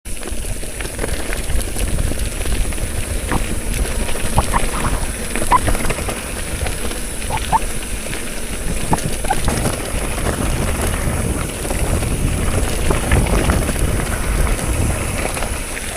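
Wind rumbling on the microphone during a mountain-bike ride, with scattered short squeaks and clicks.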